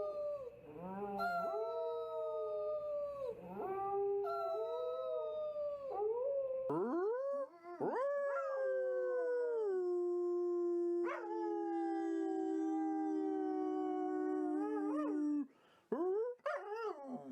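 A dog howling: a few howls of a second or two, then one long howl that rises, falls and is held for several seconds, ending in short yelping cries near the end.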